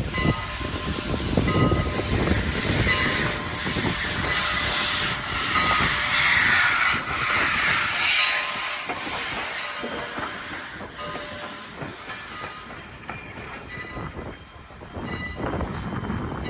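Canadian National No. 89, a steam locomotive, going by with its train. Steam hisses loudest in the middle, with wheels clicking over the rail joints, then the sound fades away toward the end.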